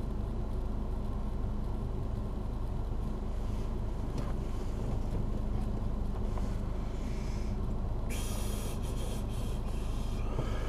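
Stock Mazda MX-3's 1.6-litre four-cylinder engine idling steadily with the car standing still, heard from inside the cabin. A brief high hiss joins it for about two seconds near the end.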